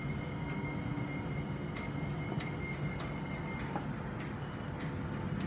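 Class 390 Pendolino electric train standing at the platform as its doors close: a steady hum of the train, with a thin high steady tone that stops about three and a half seconds in, and a few faint clicks.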